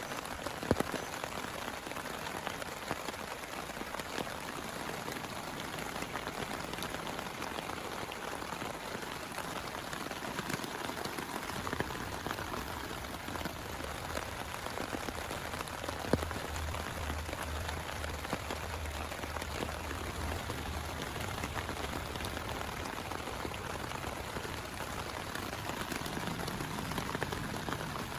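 Steady heavy rain falling, with individual drops ticking sharply on a surface now and then, two louder ones near the start and about halfway. A low rumble sits underneath through the middle stretch.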